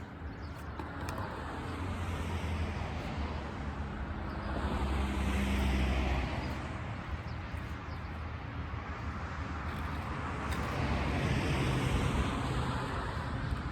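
Two road vehicles driving past one after the other. Each swells up and fades away, the first loudest about five or six seconds in, the second around eleven to twelve seconds.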